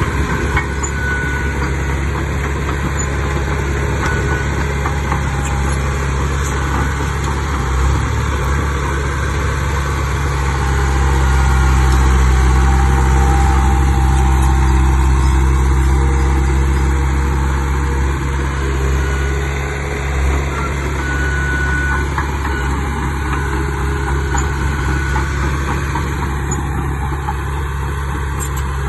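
Diesel engine of a Komatsu D31 bulldozer running steadily, growing louder for several seconds around the middle before settling back.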